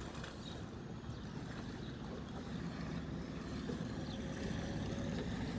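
Jet ski engine running steadily on the water, growing a little louder toward the end.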